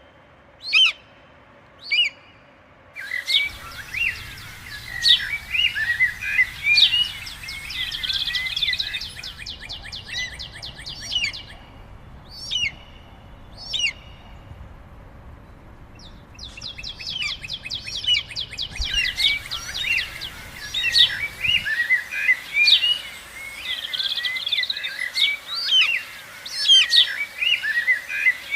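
Forest bird sound effects: a few separate chirps, then a dense chorus of many birds chirping and calling. The chorus thins to a few lone notes in the middle and builds up again in the second half.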